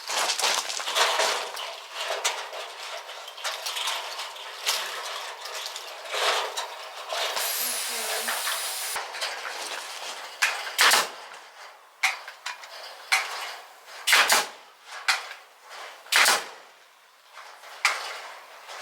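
Plastic tarp rustling and crinkling as it is handled. It is followed in the second half by a string of sharp knocks about a second apart.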